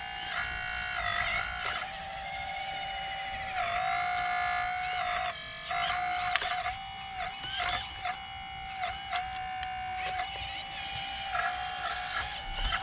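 RC excavator's electric hydraulic pump whining at a steady pitch, dipping briefly again and again as the hydraulics take load, with a few sharp clicks from the machine working.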